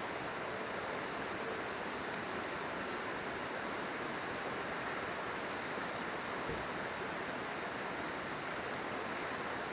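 River water rushing steadily, with a few faint crackles from a wood campfire.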